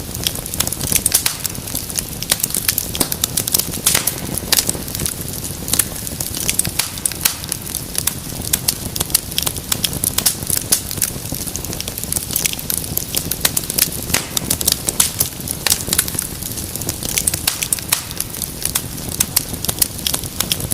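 Wood fire crackling, with frequent irregular pops and snaps over a steady low rumble of burning.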